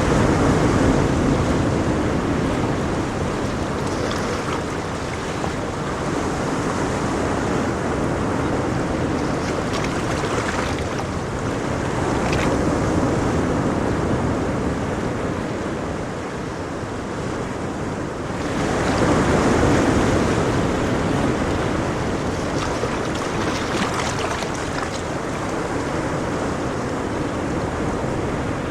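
Ocean waves breaking and washing on a shore, a steady hiss of surf that swells as a larger wave breaks about two-thirds of the way through.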